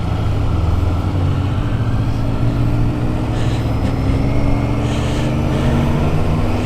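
Motorcycle engine running under way, a steady drone whose pitch creeps up slightly as the bike gathers speed, with rush of wind and road noise.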